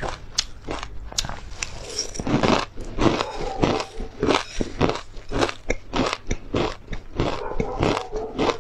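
Crunchy chewing of a spicy tartary buckwheat crisp: a fast, uneven run of crisp crunches, about two or three a second.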